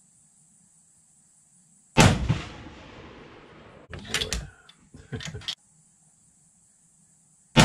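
Two rifle shots from a Remington 700 bolt-action hunting rifle, about 2 s in and again near the end, each a sharp crack that rings off briefly. Between them come several short clacks as the bolt is worked to chamber the next round.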